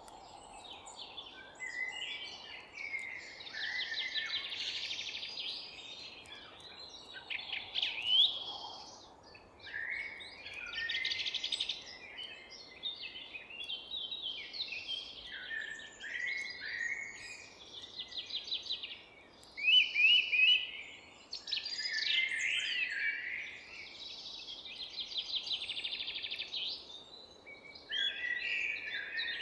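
Several songbirds singing and calling at once in overlapping phrases, with fast trills and short chirps following one another without a break, over a faint steady background hum.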